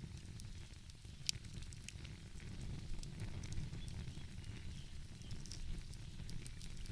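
Wood fire crackling, with scattered sharp pops and one louder pop about a second in, over a steady low rumble.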